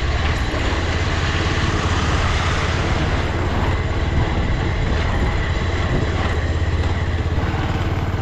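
Motorcycle riding along at a steady pace: a constant low engine drone under steady wind and road noise.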